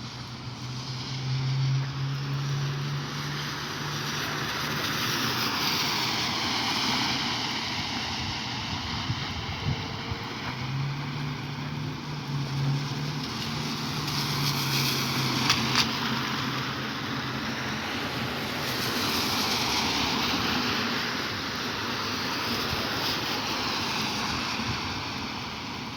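Rain falling, with vehicles hissing past on wet pavement: the tyre spray swells and fades several times, and a low engine hum comes and goes twice.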